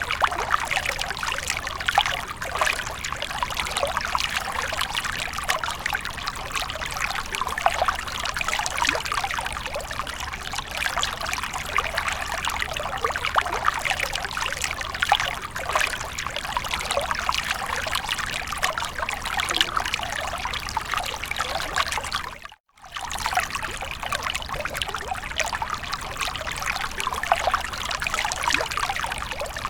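Water fountain trickling and splashing steadily, a continuous pouring sound. It cuts out for a split second about three-quarters of the way through, then resumes.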